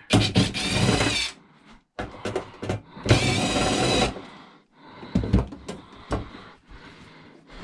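A power drill or driver runs in two bursts of about a second each, with knocks and clicks of handling in between.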